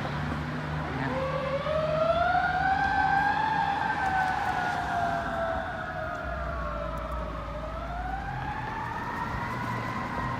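Fire engine siren winding up about a second in to a high wail, falling slowly, then rising again near the end, over the low rumble of the truck's engine.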